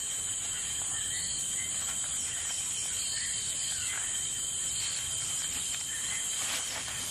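Steady chorus of insects, a constant high-pitched chirring with a few faint short chirps over it.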